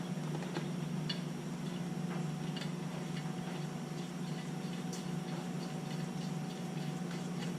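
Light, scattered clicks and ticks of small metal parts being handled and fitted, about one or two a second, over a steady low hum.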